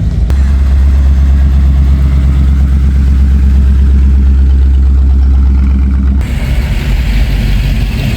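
A car engine running with a steady, deep low rumble, changing abruptly about six seconds in to another stretch of engine sound with more hiss and background noise.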